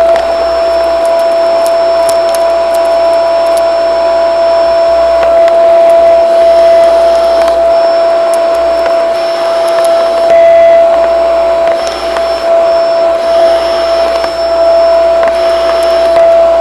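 Shark vacuum cleaner running steadily: a constant high motor whine over a loud rush of air, with scattered light clicks.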